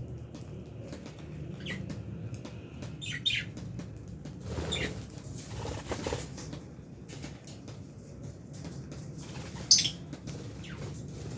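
Lovebirds chirping a few short, falling calls amid wing flapping and small clicks, over a steady low background noise; the loudest chirp comes near the end.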